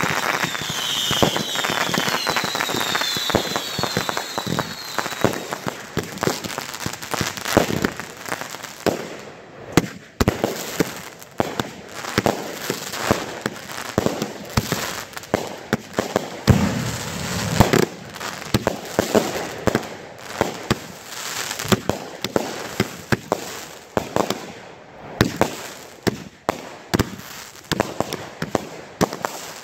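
Consumer firework cakes and mortar shells firing in a grand finale: a dense barrage of bangs and crackle, with whistles in the first few seconds, thinning to scattered, irregular bangs and pops as the cakes burn down.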